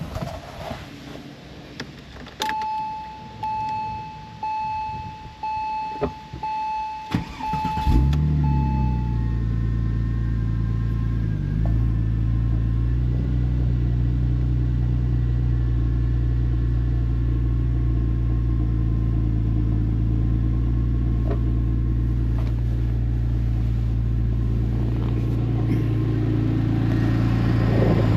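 A 2004 Porsche 911 Turbo's twin-turbo 3.6-litre flat-six cold start: a dash warning chime beeps about six times with a few clicks, then the engine cranks and fires about 8 seconds in, flares briefly and settles into a steady cold idle.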